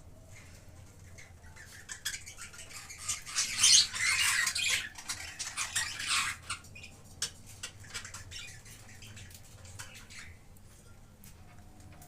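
Budgerigars chattering and squawking, loudest in a dense burst between about three and six and a half seconds in, with scattered sharp clicks throughout.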